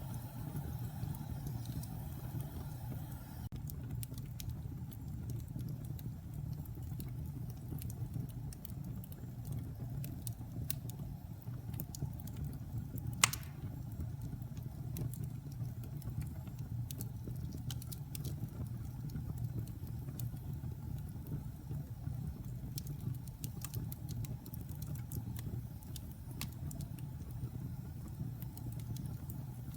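Wood fire burning in a fireplace: a steady low rumble with scattered small crackles, and one sharp, louder pop about halfway through.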